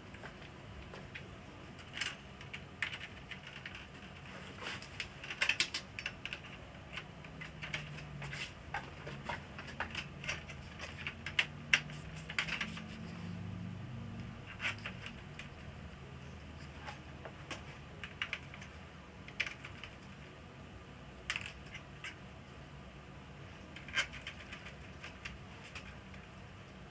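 Irregular small clicks and clinks of parts and screws being handled while an LCD TV is taken apart, busiest in the first half.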